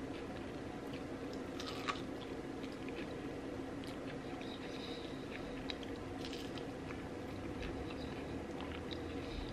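Close-miked chewing and biting of food, with scattered small crisp crackles over a steady low hum.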